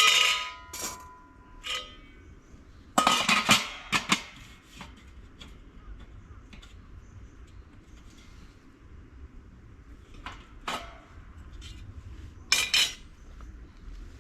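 Metal pieces clanking together in short bursts. There are a few loud clanks with brief ringing at the very start and around three to four seconds in, and more near the end.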